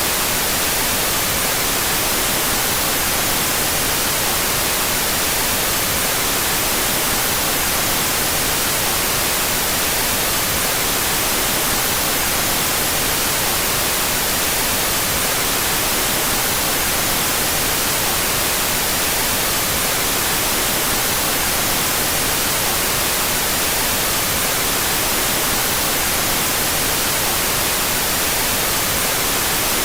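Steady, unchanging white noise, a continuous hiss that is brightest in the treble, with the two stereo channels out of phase with each other.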